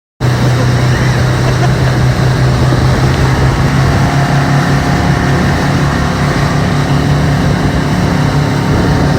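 Motorboat engine running steadily under way, a constant low drone over a loud rush of wind and water, cutting in suddenly just after the start.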